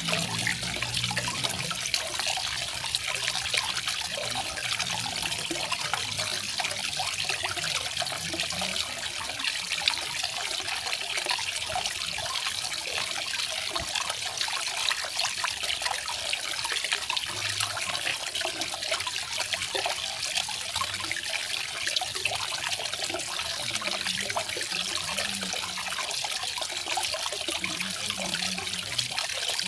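Garden waterfall: water falling and splashing in a steady, unbroken hiss.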